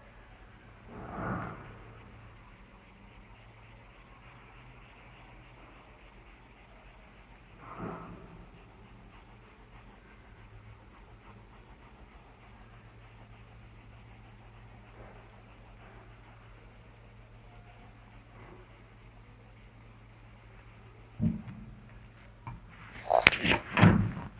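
Soft rubbing on paper, twice and briefly, as pencil shading is blended on a drawing, over a faint steady hum. Near the end comes a cluster of sharp knocks and clicks.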